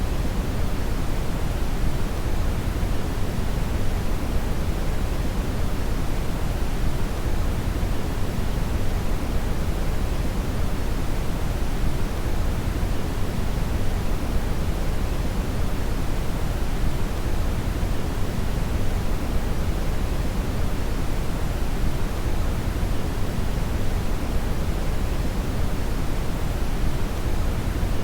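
Steady generated brown noise (red noise): an even, unchanging rushing hiss weighted heavily toward the low end, with no rhythm or events.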